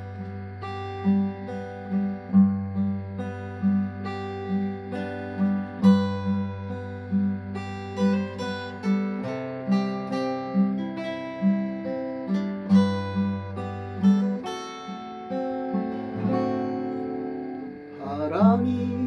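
Acoustic guitar playing a song's instrumental introduction: a run of plucked notes over a steady, evenly pulsing bass line.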